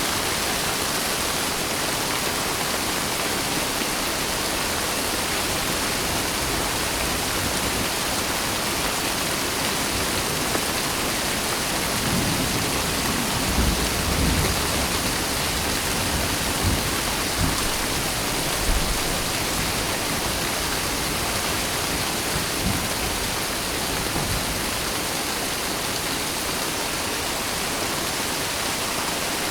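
Steady rain falling, with thunder rumbling low for several seconds near the middle.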